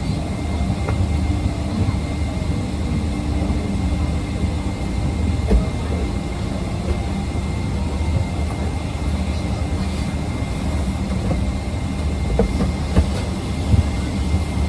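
Steady low rumble of a jet airliner's cabin, with a thin steady whine above it. A few light knocks come about a third of the way in and again near the end.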